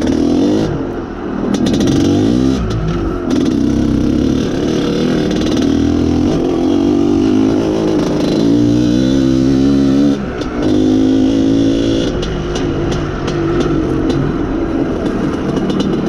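IZh Planeta Sport motorcycle's single-cylinder two-stroke engine under way, its revs rising and falling with the throttle, with a brief drop just after ten seconds before it picks up again.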